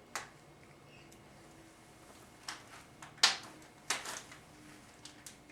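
Scattered light clicks and taps, about six, the loudest a little past halfway, from small parts being handled while check balls are picked out of a 4L60E transmission valve body with a magnet.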